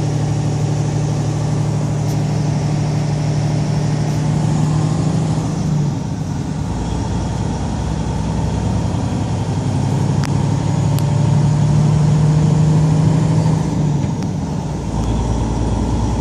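Truck engine running steadily with a low drone that eases off about six seconds in, comes back, and drops again near the end.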